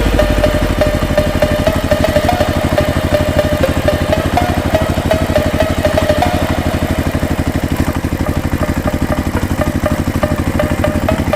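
Small engine of a DIY mini tractor running steadily at an even idle, with a rapid regular firing beat.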